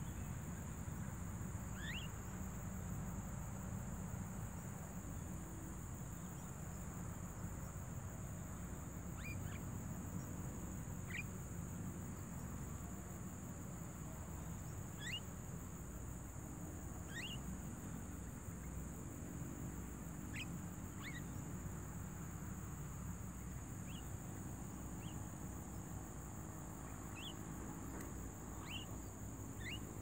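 Short, high bird chirps scattered every second or few seconds over a steady, high-pitched insect drone and a low wind rumble.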